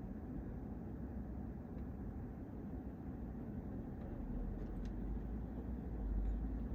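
Low steady rumble of road traffic, growing deeper and louder from about four seconds in as a vehicle draws close.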